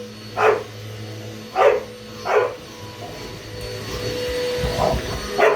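Dog barking at a running vacuum cleaner: three sharp barks in the first two and a half seconds, then two more near the end, over the vacuum's steady motor hum. A louder low rumble builds shortly before the last barks.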